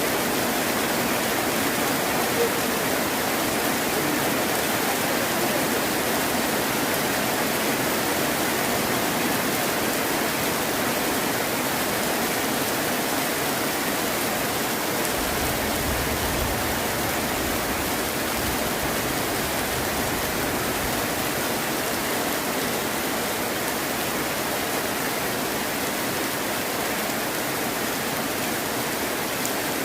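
Heavy rain falling steadily, an even hiss of water. About halfway through, a brief low rumble of thunder.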